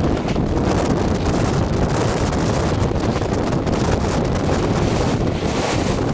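Wind buffeting the microphone from a moving vehicle, over a steady low running rumble.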